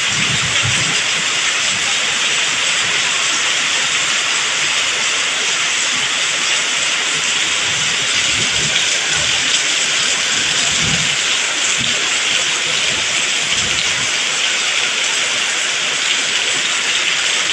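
Heavy tropical rain pouring steadily during a thunderstorm, an even loud hiss of rain with a few faint low thuds.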